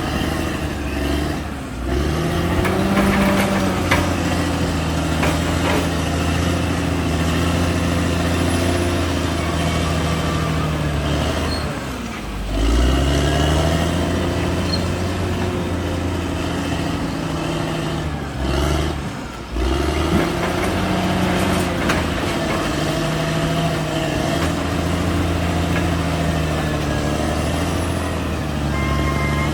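Caterpillar D6R XL bulldozer's diesel engine working under load. Its pitch sags and climbs back up a few times as the dozer pushes and changes direction.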